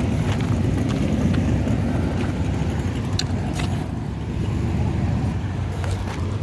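Car engines running with a steady low rumble, with a few faint clicks over it.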